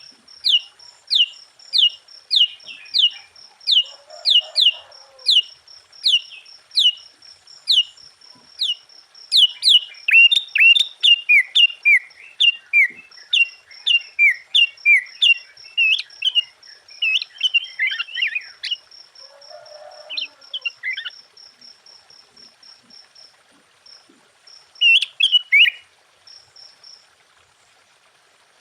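Sooty-headed bulbul (kutilang) singing. It opens with a run of quick whistled notes that each fall in pitch, about two a second, then breaks into a busy chattering warble. After a pause near the end comes one short phrase. A steady, fast, high ticking runs behind the song for most of the time.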